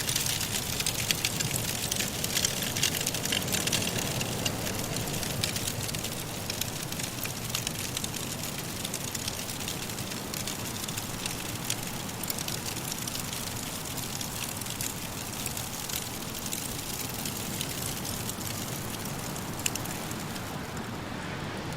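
Firewood crackling in a fireplace: many small pops over a steady rushing hiss of soft blizzard wind. The crackling is densest for the first several seconds, then thins, with one sharper pop near the end.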